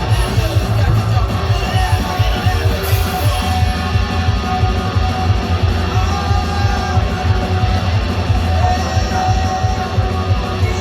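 Loud rock music with electric guitar, playing steadily throughout.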